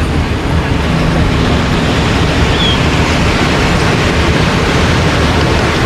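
Ocean surf washing onto a sandy beach: a steady, unbroken rushing noise.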